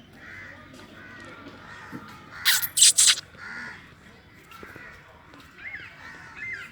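Crows cawing: three loud caws in quick succession about two and a half seconds in, with faint short bird chirps later on.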